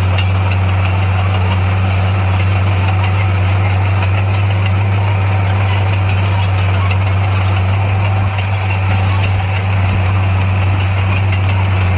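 Heavy construction-machine diesel engine running at a steady speed: a loud, even low drone that dips briefly about eight seconds in.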